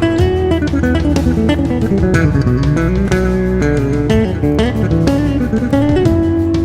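Background music: a solo electric bass guitar played with a whammy pitch-bending effect, notes sliding up and down in pitch between plucked attacks.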